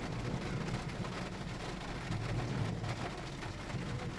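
Steady rain falling on a car, heard from inside the cabin.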